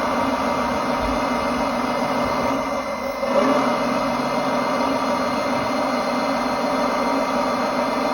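Engine of a heavy construction machine running steadily, dipping briefly about three seconds in and then picking up again.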